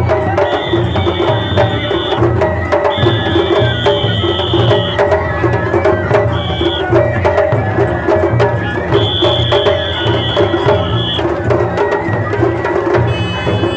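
Japanese festival hayashi music: drums beating a steady, driving rhythm under long, high held notes from a flute.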